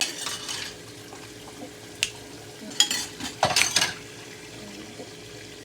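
Kitchen dishes and utensils clinking and knocking: a sharp clink about two seconds in, then a quick cluster of clatters and knocks a second later, over a faint steady hum.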